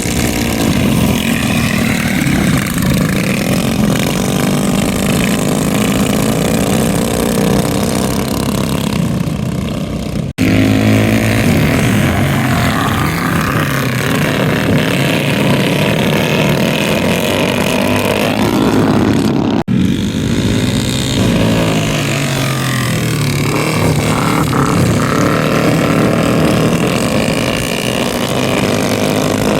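Mini bike engines racing, their pitch rising and falling as the riders throttle up and back off. The sound breaks off abruptly twice, about ten and twenty seconds in.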